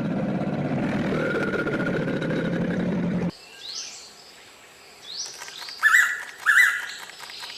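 A loud steady noise for about three seconds that cuts off abruptly, followed by forest birds calling: high rising whistles and two louder short calls near the end.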